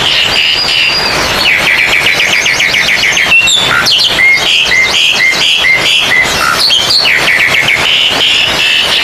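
Oriental magpie-robins (kacer) singing loudly and continuously: rapid runs of repeated notes, short rising and falling whistles and fast trills.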